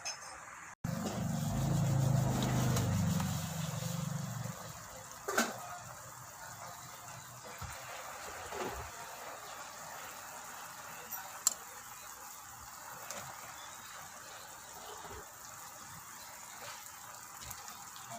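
Liquid sounds at a pot of chicken soup: a few seconds of heavy rushing liquid, like water or broth being poured in, then a steady low hiss of the pot with a few sharp clicks and knocks of utensils.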